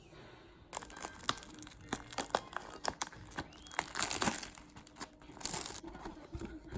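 Crinkling and rustling of material being handled, with many small irregular clicks and taps, starting about a second in.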